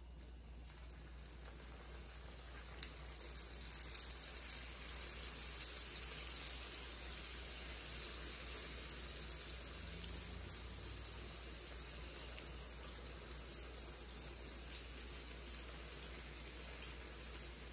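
Egg rolls sizzling as they fry in hot oil in a pan. The hiss builds over the first few seconds as more rolls go in, then holds steady, with a couple of sharp pops.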